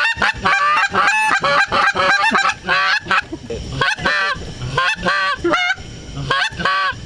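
Hand-blown goose call giving a rapid string of short, pitched honks, about three a second, with a brief break near the end. It is blown by an unpractised caller, and the honks sound like a clown at a birthday party.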